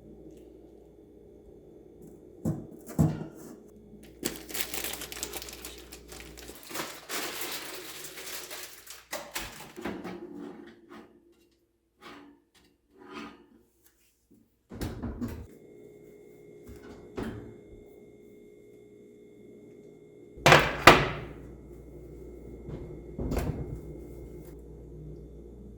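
Kitchen handling sounds of muffin baking: knocks and thunks of bowls, pans and utensils being set down and moved, with a stretch of scraping or rustling noise early on. A faint steady tone sounds for several seconds in the second half, and a double thunk about twenty seconds in is the loudest event.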